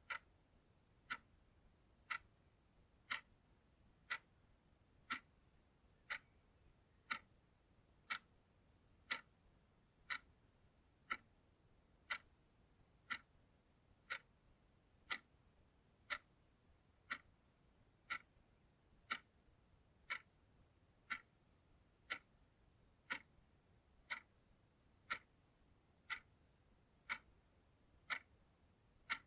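Clock ticking steadily: sharp, evenly spaced ticks about once a second.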